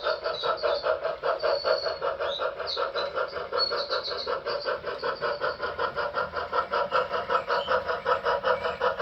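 HO scale Reading 2-8-0 Consolidation model steam locomotive's onboard sound, chuffing steadily at about four beats a second as it runs.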